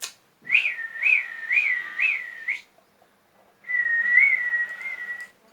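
Two whistled phrases: a warbling whistle that rises and falls about five times, then, after a short pause, a longer, steadier whistle with a couple of small wavers.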